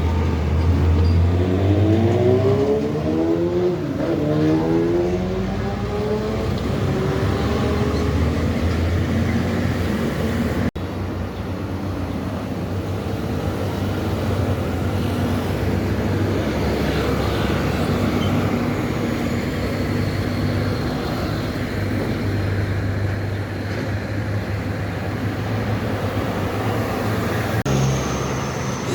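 Heavy truck engines on a highway: in the first few seconds an engine note glides up and down in pitch as a truck passes, then after an abrupt cut about eleven seconds in a steady engine drone continues.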